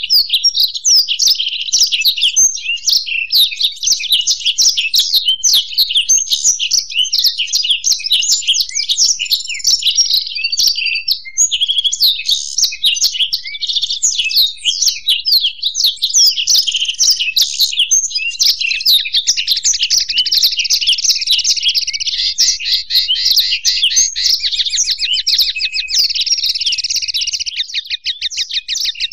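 Continuous, fast twittering song from a blackthroat (black-throated canary) and a European goldfinch, with rapid trilled runs from about twenty seconds in.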